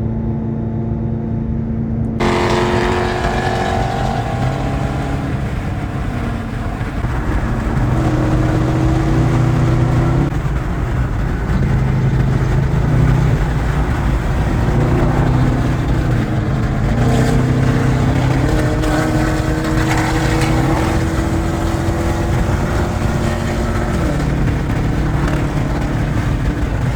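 Car engines running at highway speed, their pitch holding and then stepping up or down as they speed up and ease off, over a steady rush of wind and road noise that swells about two seconds in.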